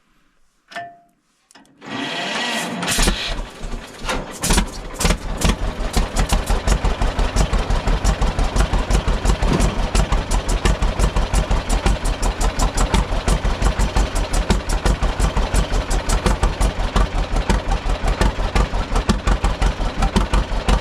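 John Deere two-cylinder tractor engine being started with its compression releases open: the starter cranks for about a second, the engine catches about three seconds in with a few uneven firings, then settles into a steady, even beat of firing pulses.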